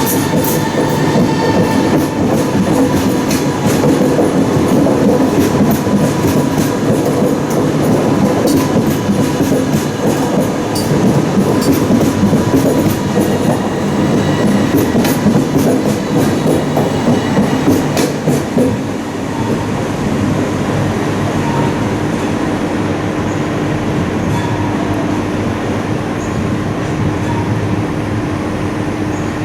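SBB RABe 503 (ETR 610) tilting electric train running on the rails, its wheels clicking sharply over rail joints and points for the first eighteen seconds or so. After that the clicking stops and it runs on more smoothly with a steady hum.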